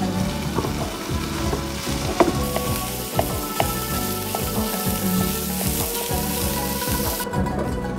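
Minced beef frying with chopped onions in a frying pan, stirred with a wooden spoon: a steady sizzle with scattered clicks and scrapes of the spoon against the pan. The sizzle grows stronger a couple of seconds in and cuts off sharply near the end.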